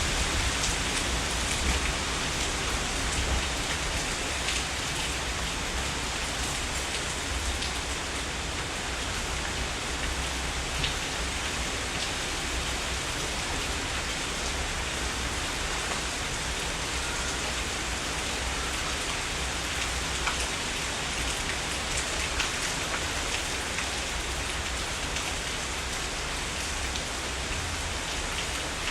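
Steady heavy rain, with scattered individual drops hitting close by over an even wash of rainfall and a low rumble beneath.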